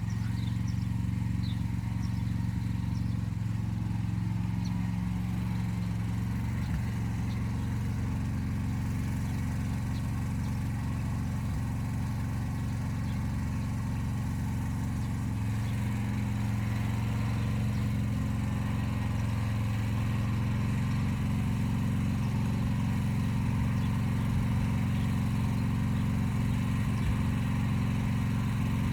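Motor Sich walk-behind tractor engine running steadily under load, pulling an arrow-type hiller along the rows. The engine note shifts slightly now and then.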